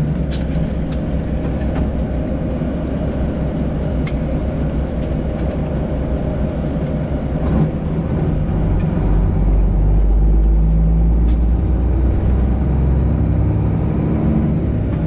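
Cab noise of a Freightliner Classic XL semi truck under way: the Detroit Diesel 12.7 engine's low steady drone with road noise, swelling louder about two thirds of the way through, with a few sharp clicks.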